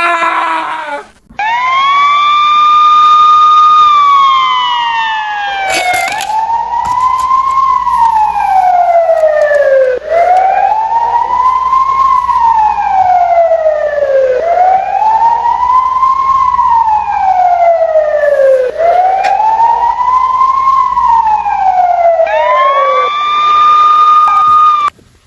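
Emergency vehicle siren wailing. It rises to a high note and holds it for about two seconds, then sweeps slowly up and down four times, about four seconds per wail. It rises and holds again near the end, then cuts off abruptly.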